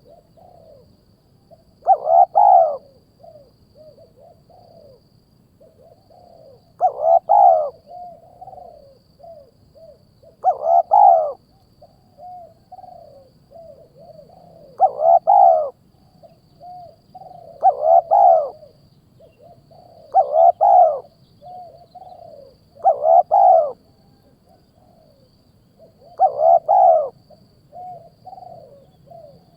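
Bird calls repeated about every three seconds: each loud call is a pitched, falling note, followed by a string of softer short notes. This is played as a lure for birds of prey.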